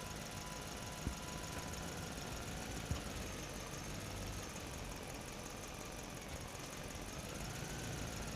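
A motor running steadily with a faint wavering whine, and two light clicks about one and three seconds in.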